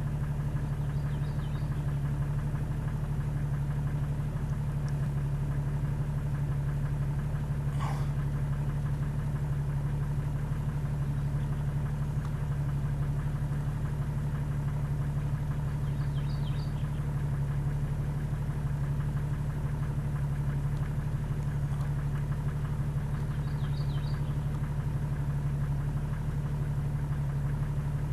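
Vehicle engine idling steadily, a constant low hum, with a few faint high chirps.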